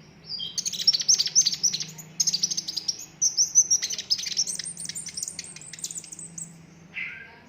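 Sunbird singing loudly in rapid, high-pitched trills. Several quick runs of notes come in bursts, and a longer, higher run follows from about four seconds in. A faint steady low hum lies underneath.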